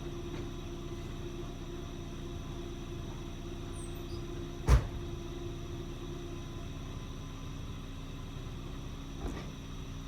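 Truck engine idling steadily. A single sharp knock about halfway through, and a faint click near the end.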